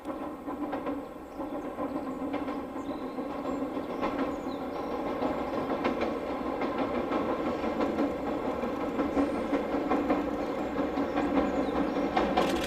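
Diesel multiple unit running across a steel girder bridge, its engine droning steadily and growing louder as it approaches. A few scattered wheel clicks at rail joints, then a quick run of clickety-clack near the end.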